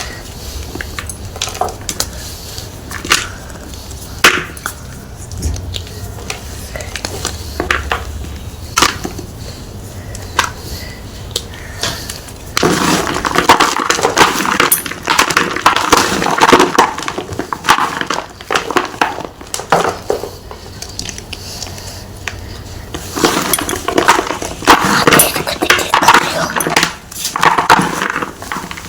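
Round blocks of gym chalk crunching and crumbling close to the microphone: scattered single snaps at first, then long runs of dense crunching from a little under halfway in, a short pause, and a second run until near the end.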